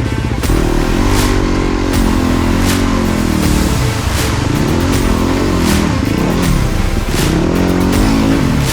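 Dirt bike engine revving up and down repeatedly, with background music keeping a steady beat underneath.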